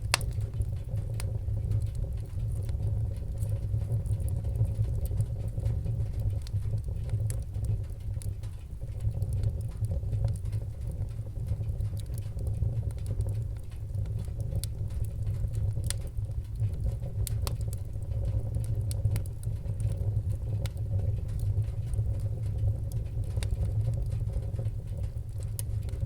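Wood-burning fire crackling: scattered sharp pops and clicks over a steady low rumble of the flames.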